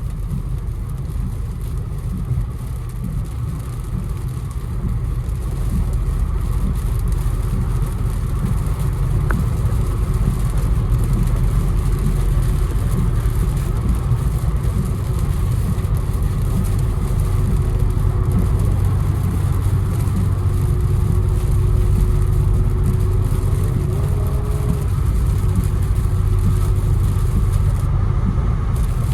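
Infiniti Q60 driving on a wet road in the rain, heard from inside the car: a steady low rumble of engine and road noise under an even hiss of tyres and rain.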